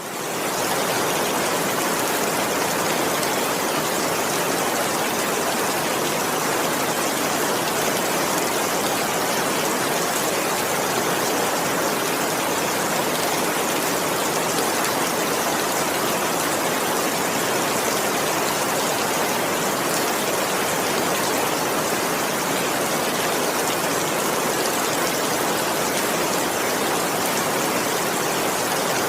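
Steady heavy rain, an even unbroken hiss with no thunder, fading in over the first half-second.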